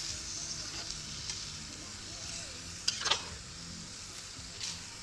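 A spoon stirring chicken fajita filling in a Dutch oven over a campfire, over a steady sizzle. There is a cluster of sharp scrapes or knocks a little past halfway and one more near the end.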